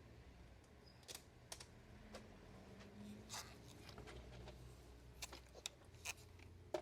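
Faint room tone broken by about half a dozen small, sharp clicks and taps, irregularly spaced: small parts being handled and fitted together by hand.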